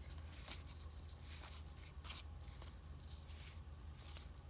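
Baseball cards being handled and slid one after another from a freshly opened pack: about six short, soft papery swishes, over a steady low hum.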